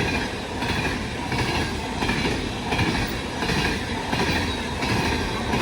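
Freight train of oil tank cars rolling past close by: a steady rumble of wheels on rail with a regular clatter repeating about every two-thirds of a second.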